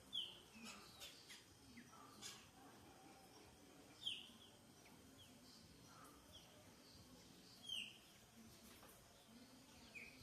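Birds chirping: four short, sharp calls that drop in pitch, spaced a few seconds apart, over faint background noise.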